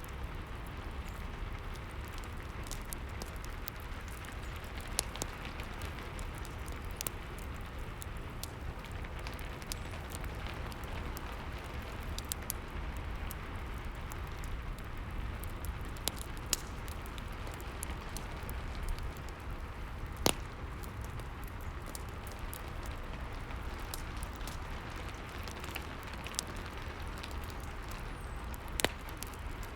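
Steady rain with a wood fire crackling over it: irregular sharp pops, the two loudest about two-thirds of the way in and near the end.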